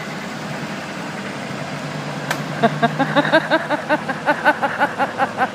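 Road vehicles in a convoy running with a steady engine drone. About two seconds in, a sharp click is followed by a rapid run of short pitched chirps, about six a second, which are the loudest sound.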